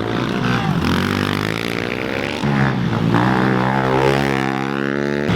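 Several small 110cc four-stroke pit bike engines racing round the track, revving up and down with overlapping engine notes. A bike gets louder about halfway through.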